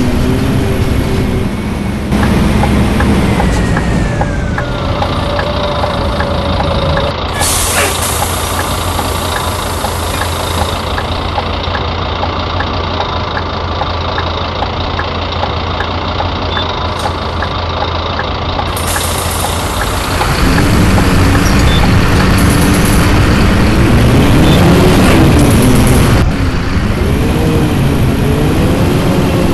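Scania bus engine idling steadily, with a burst of air hiss about seven seconds in, then revving up and pulling away, its pitch rising and falling with a drop near the end as it changes gear.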